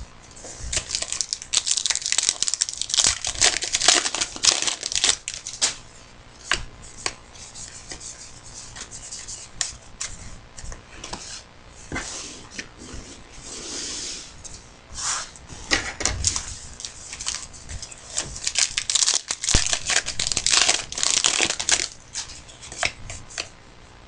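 Trading card pack wrappers being torn open and crinkled by hand, with cards being handled: irregular spells of rustling and tearing broken by sharp clicks.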